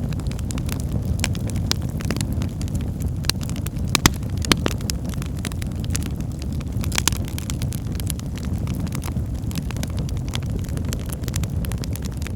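Burning logs in a fireplace: a steady low rumble of flames with frequent crackles and a few sharper pops, the loudest about four seconds in and again around seven seconds.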